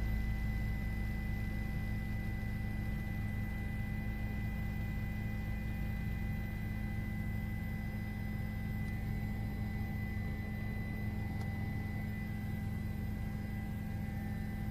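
A steady hum with a few faint held tones above it, unchanging throughout, with no distinct events.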